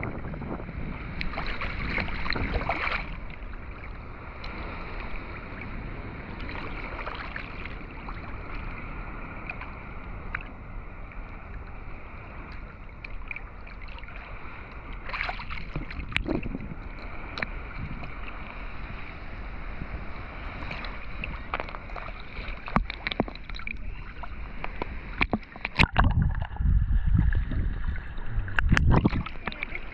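Ocean water sloshing and splashing close to the microphone, with scattered knocks. Heavy low buffeting rumbles hit the microphone near the end.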